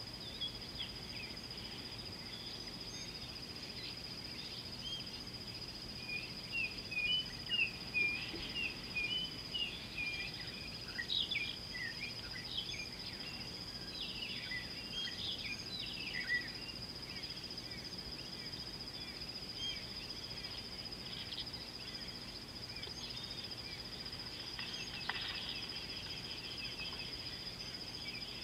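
Wild birds calling in short, repeated chirps and whistles, busiest through the first half, over a steady high-pitched whine.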